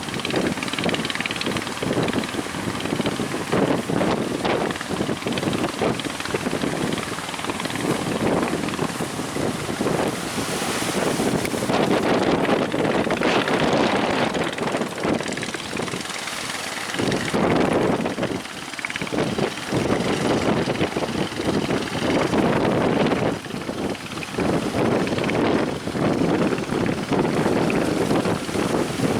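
Strong wind buffeting the microphone aboard a boat under way in rough sea, over the steady run of the boat's engine; the noise swells and dips every few seconds.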